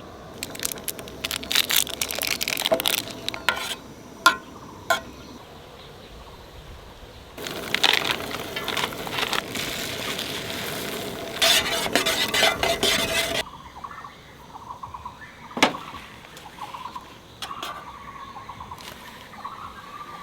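Cookware and utensils being handled for camp cooking: scattered clinks and clatter, with a few sharp knocks. A stretch of dense rustling noise comes in the middle and stops suddenly.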